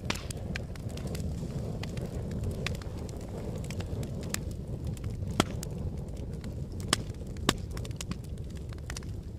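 Fire crackling: a steady low rumble of burning under frequent sharp pops and snaps, with three louder pops in the second half.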